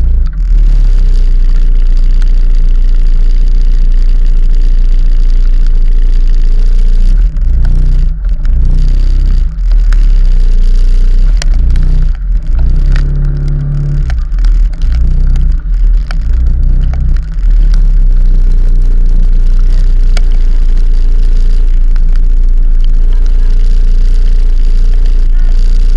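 A vehicle on the move: a loud, steady low rumble of engine, road and wind noise, which dips and swells a few times in the middle.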